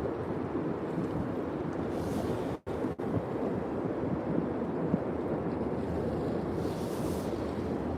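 Steady wind noise buffeting the microphone outdoors, dropping out abruptly twice about two and a half seconds in.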